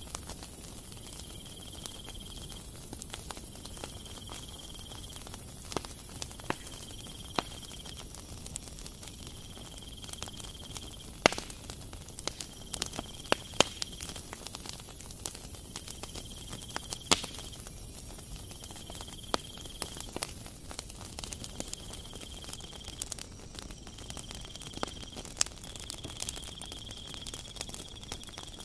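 Dough crackling and sizzling inside a hinged aluminium nut-cookie mold on a gas burner, with sharp metal clicks near the middle as the mold is opened and shut. A faint high chirp repeats about every two seconds.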